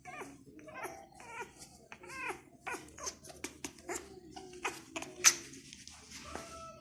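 Pet parrot vocalising: a quick string of short squeaky calls that bend up and down, mixed with clicks, and one sharp loud click a little after five seconds in.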